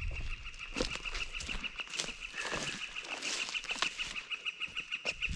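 A bird's long, even trill on one high pitch, about eight notes a second, held without a break.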